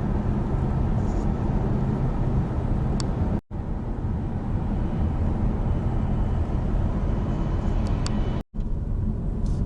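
Steady road and engine noise heard inside a moving car, with most of the sound low in pitch. It cuts out for an instant twice.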